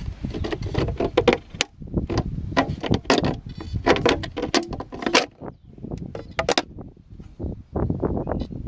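Clattering handling noises: a quick irregular run of clicks, knocks and rattles over a low rumble, with a short lull about five seconds in. This is the RC surfboard being handled and opened up after its motor is shut down.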